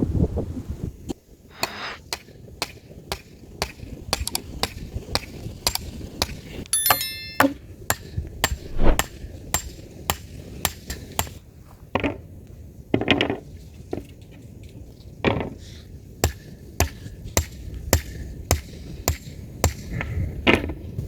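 A series of sharp, irregular knocks, a few a second, with a brief metallic ring about seven seconds in.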